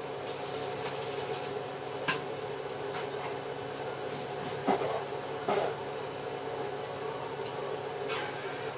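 Steel parts clinking and knocking against each other in a few separate sharp strikes, the loudest two just before and after the middle, over a steady machine hum.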